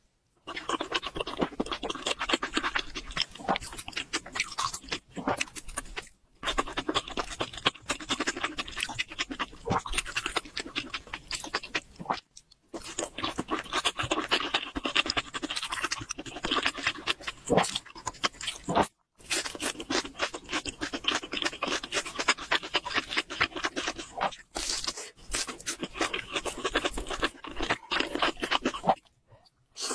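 Close-miked chewing and wet mouth sounds of someone eating spicy sauced instant noodles and fried chicken, with some crunching. The sound is a dense run of small clicks and smacks, broken by a few short, sudden silences.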